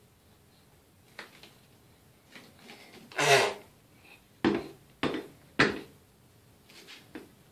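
Hard objects knocking and clattering about half a dozen times at irregular intervals. The loudest is a longer clatter about three seconds in, followed by three sharp knocks in quick succession.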